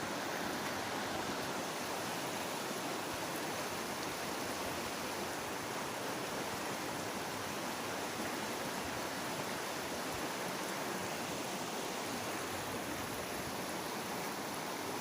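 Running water of a mountain stream, a steady rushing that does not change.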